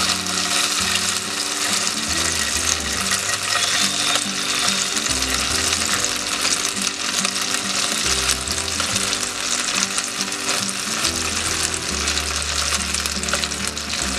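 Paneer cubes sizzling steadily as they shallow-fry in hot oil in a frying pan, with soft background music underneath.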